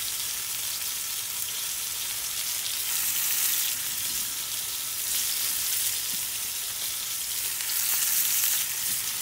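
Flour-dredged bass nuggets frying in hot oil in a skillet: a steady sizzling hiss. It swells about three seconds in and again near the end as another piece is laid into the oil.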